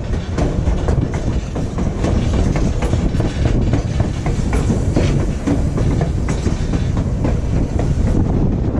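Passenger train running, heard from aboard: a steady low rumble with the wheels clicking irregularly over the rail joints.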